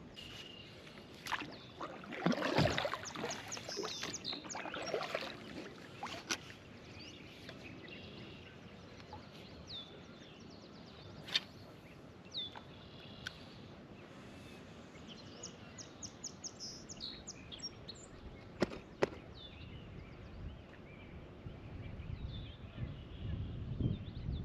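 Quiet outdoor lake ambience with scattered short bird chirps. There is a brief rustle of handling about two seconds in and a few sharp knocks from the kayak.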